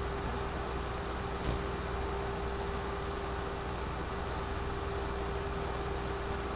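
Steady flight-deck noise of a Boeing 737 in the climb: an even rush of airflow and jet engine drone with a constant hum tone running through it, and a faint click about a second and a half in.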